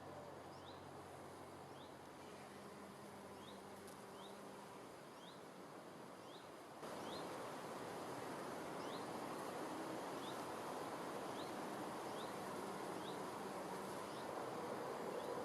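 Outdoor nature ambience: a steady hiss with a short, high chirp repeating about twice a second. The whole sound steps up louder about seven seconds in.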